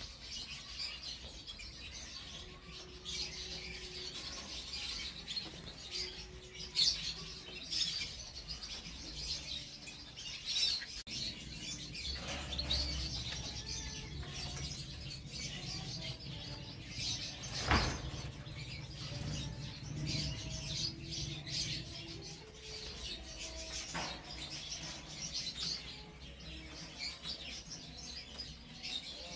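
Domestic canary singing in quick, faint runs of chirps and twittering trills, with a single sharp click about eighteen seconds in.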